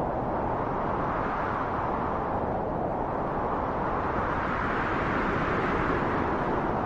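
Wind blowing in a steady rush that eases a little about three seconds in and swells again near the end.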